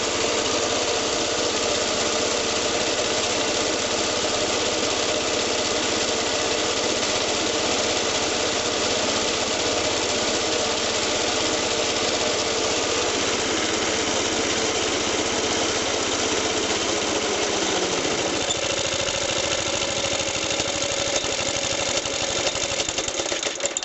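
Suffolk Super Colt lawnmower's small two-stroke Suffolk engine running steadily while it warms up after starting. About three-quarters of the way through its note drops as the engine slows, and it stops at the very end.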